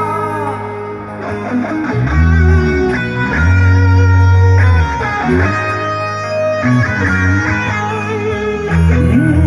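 A rock band plays an instrumental break: a guitar carries a melody with bending notes over long, strong bass notes.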